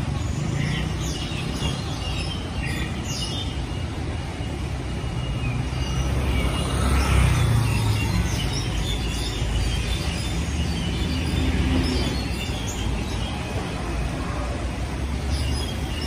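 Several small birds chirping and singing in the trees, in short scattered calls, over a steady low background rumble that swells about seven seconds in.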